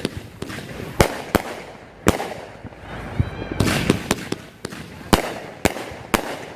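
Pyro Planet 'Technicolor Dream' 500-gram multi-shot fireworks cake firing: a string of about ten sharp bangs, roughly every half second.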